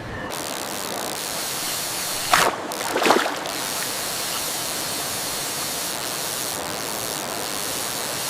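Steady rushing water, hissing like spray, with two louder splashing surges about two and three seconds in.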